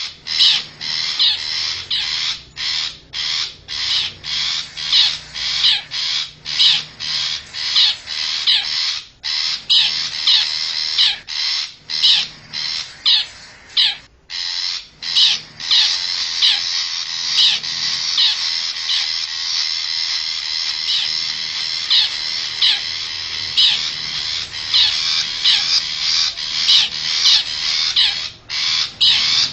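Long-tailed shrike giving harsh, grating scolding calls over and over, about two a second, running together into a denser chatter from about halfway through. It is a lure recording meant to draw wild shrikes in.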